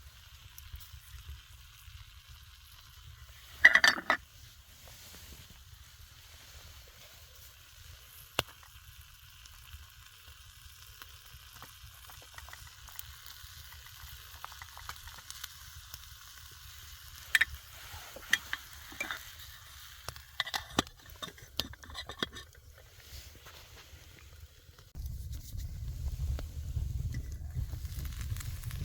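Food sizzling in a pan over a campfire, with a few sharp knocks and scrapes of a utensil, the loudest about four seconds in. A low rumble joins near the end.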